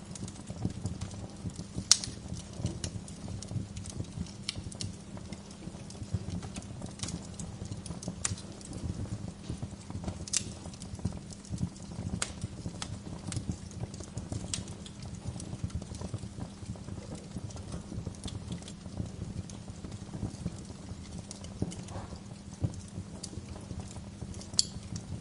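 Bonfire crackling: irregular sharp pops and snaps of burning logs over a steady low rumble of the flames, with a loud pop about two seconds in and another near the end.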